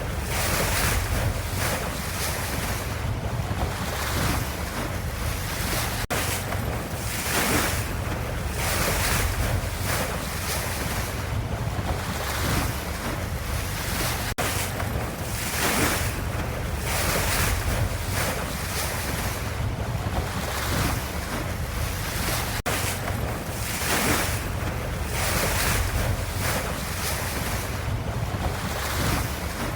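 Ocean waves washing in a steady, repeating wash: swells of hiss every second or two over a constant low rumble. A faint click recurs about every eight seconds.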